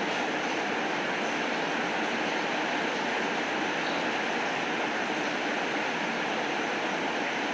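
Steady rain falling, an even hiss with a few faint high ticks.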